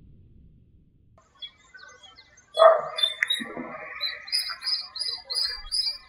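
Several small birds singing and chirping: short high chirps and whistled glides, a louder harsher call about two and a half seconds in, then a quick run of repeated high notes at about five a second. A low rumble fades out over the first second before the birds come in.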